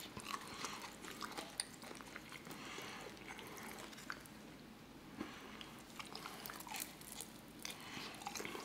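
Quiet close-miked eating: scattered crunches, bites and wet mouth clicks of chewing fried catfish and shrimp.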